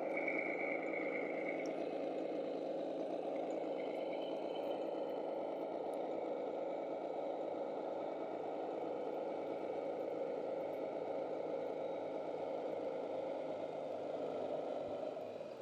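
Radio-controlled model trucks and construction machines running, a steady engine-like hum, with a faint high whine for about the first second and a half.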